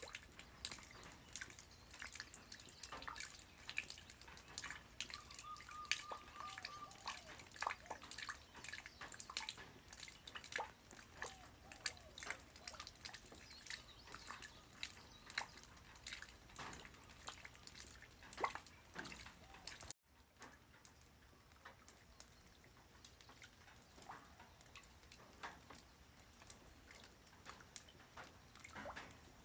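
Light rain falling on the ground: many separate drops ticking and dripping over a faint hiss. About 20 s in the sound cuts abruptly to a quieter, sparser patter.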